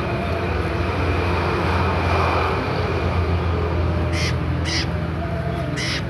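Three short, harsh bird calls, about four, four and a half and six seconds in, over a steady low hum.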